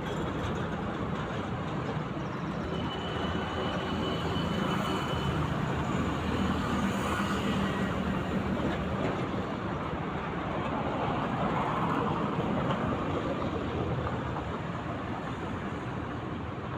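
Steady noise of a running vehicle with a low hum, and a faint thin high tone from about three to five seconds in.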